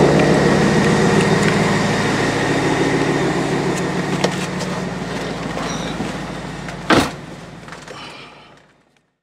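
BMW X5 E70 engine idling with a steady hum that fades out over the last couple of seconds. About seven seconds in, a car door shuts with one sharp thud.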